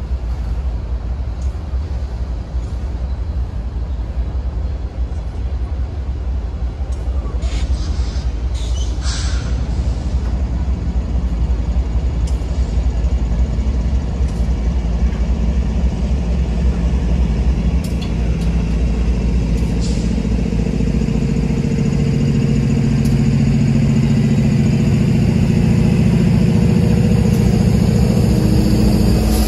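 Freight train diesel locomotives drawing closer: a low rumble, with an engine drone that grows steadily louder through the second half.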